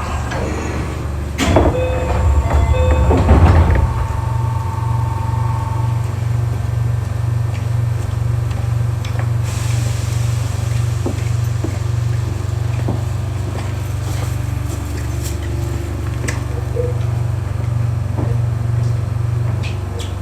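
Passenger doors of a Keio 8000 series electric train sliding shut with a clatter and thud between about one and a half and four seconds in. A steady low hum from the train's equipment with an even pulse follows, heard from inside the car.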